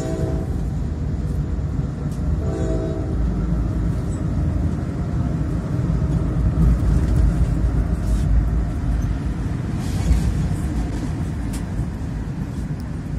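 Passenger train running at speed, heard from inside the carriage: a steady low rumble of the wheels on the track with a few sharp clicks. A short train horn blast sounds right at the start and again about two and a half seconds in.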